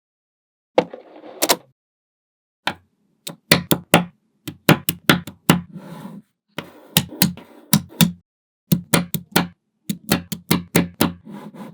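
Small magnetic balls snapping together and being pressed into place, a long irregular run of sharp clicks, some in quick pairs, each with a short dull knock under it.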